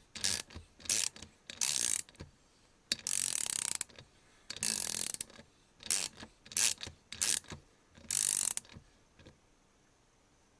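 MAC Tools MR100SPA 1/4-inch-drive, 100-tooth swivel ratchet clicking as the handle is swung back. It comes in about nine separate strokes, most short and a few longer, the longest about a second long starting about three seconds in, and they stop after about nine seconds.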